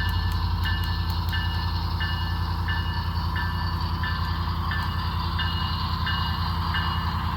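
Sound-equipped HO scale model diesel locomotive running with a train: a steady low engine rumble, with its bell ringing about once every two-thirds of a second.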